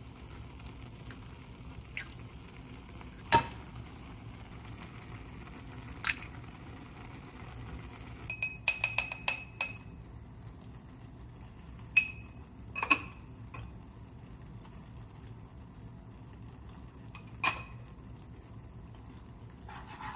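A fork or spoon clinking against a bowl as eggs are beaten: scattered single taps that ring briefly, and a quick run of about eight taps near the middle, over a low steady hum.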